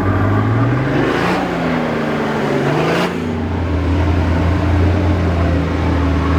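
Off-road 4x4's engine revving under load as it climbs a trail obstacle, rising in pitch twice, then dropping back to a steadier, lower running. Two short bursts of noise come about a second and three seconds in.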